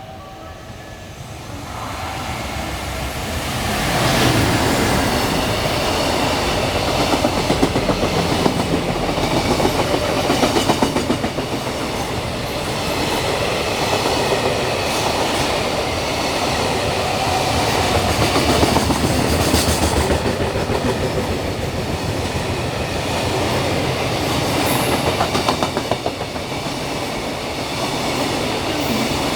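Freight train passing through at speed: a long run of wagon wheels clattering over rail joints, building up over the first four seconds and staying loud throughout.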